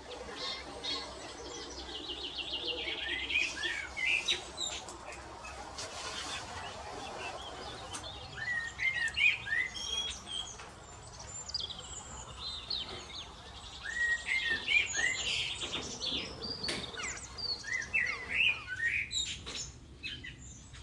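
Songbirds singing in repeated phrases of quick high notes and short slurred sweeps, several phrases over the stretch with short gaps between.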